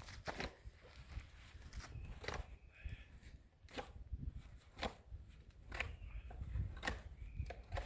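Knife scraping and shaving the bark off a wooden stick: short, irregular strokes, roughly one a second.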